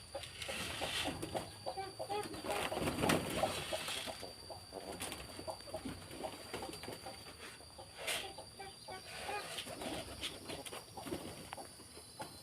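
Domestic pigeons calling and moving about, with a few sharp wing flaps.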